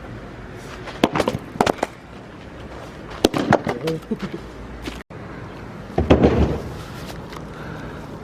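Axe blows splitting firewood: a few sharp knocks about a second in, a sharp crack near the middle, and a heavier thud a little after six seconds.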